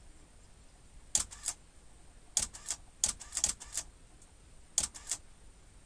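Camera shutter firing in quick bursts: four short runs of rapid clicks, a few clicks each, taken in continuous shooting mode.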